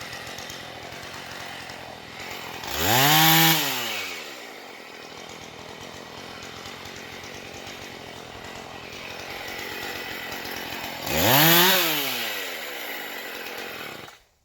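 Two-stroke chainsaw idling, revved up and let back down twice, about three seconds in and again near the end. The sound cuts off suddenly just before the end.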